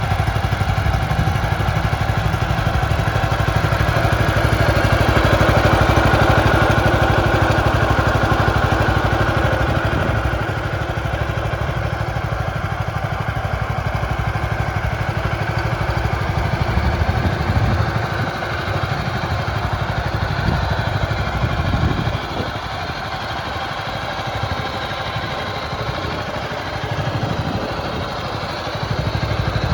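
Kohler CH440 single-cylinder petrol engine of a Belarus 152 mini-tractor running continuously, its sound swelling and easing several times.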